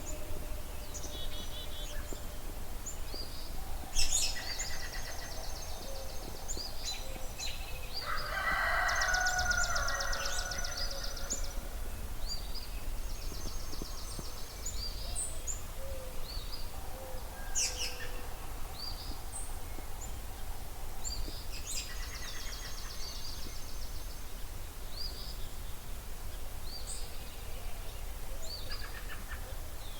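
Spring dawn chorus of several songbirds: repeated dry, high trills lasting about two seconds each, with many short whistled notes between them. A sharp loud note comes about four seconds in, and a louder, lower, rough call lasting about two seconds comes about eight seconds in.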